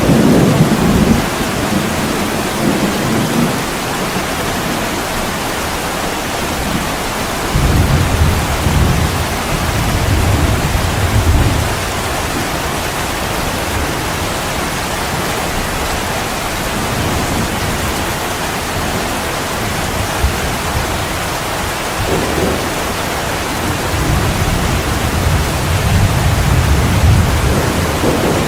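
Heavy rain pouring steadily, with low rolling thunder rumbling at the start, again from about eight to twelve seconds in, and building once more near the end.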